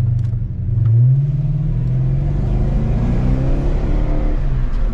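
2006 Dodge Charger R/T's 5.7-litre Hemi V8 accelerating under load, heard from inside the car, its engine note rising steadily in pitch from about a second in.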